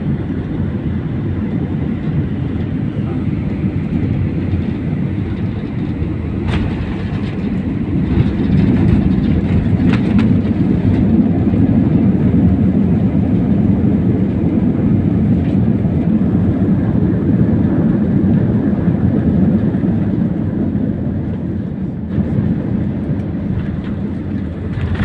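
Jet airliner cabin noise during landing: a steady low rumble of engines, airflow and wheels that grows louder about eight seconds in and eases off toward the end, with a few faint clicks and knocks.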